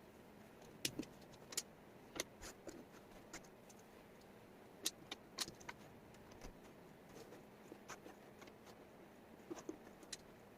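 Wooden jigsaw puzzle pieces clicking and tapping as they are picked up, shuffled and set down: irregular sharp little clicks, some in quick pairs, over a faint hiss.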